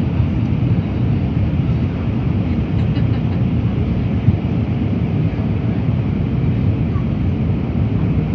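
Airliner cabin noise during descent: a steady, low roar of jet engines and airflow heard from inside the cabin, with a faint steady hum above it.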